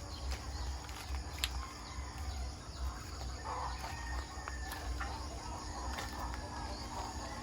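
Faint farmyard background: chickens calling in the distance over a steady insect drone, with a short fowl call about halfway through. A low rumble on the microphone runs underneath.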